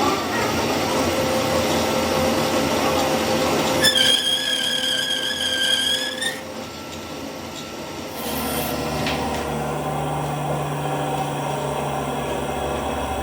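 Metalworking tool sounds: scraping and rubbing on metal, then a steady high power-tool whine for about two seconds that cuts off. About eight seconds in, a steady low machine hum starts.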